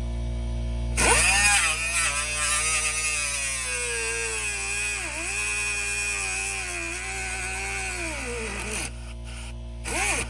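A handheld power tool's motor, drill or grinder type, runs for about eight seconds with a whine that slowly sags and dips in pitch as it is loaded, then winds down; a short second burst spins up and down just before the end. A steady low hum sits underneath.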